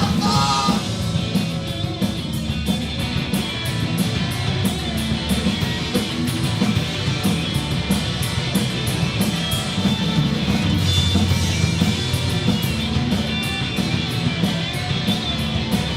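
Live rock band playing an instrumental stretch: electric guitars, bass and drum kit, with the hi-hat or cymbals keeping a steady beat.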